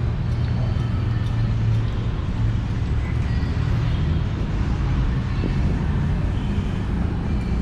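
A motor vehicle engine running steadily, a low even rumble.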